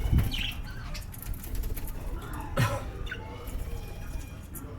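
Pet lovebirds giving a few short chirps, with fluttering wings and low thumps near the start and about two and a half seconds in.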